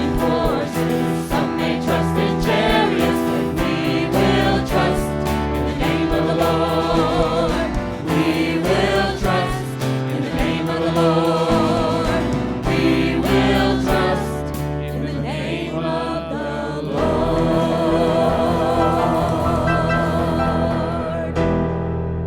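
Live church worship music: singers with a band playing a contemporary Christian song, the sound thinning out and fading near the end.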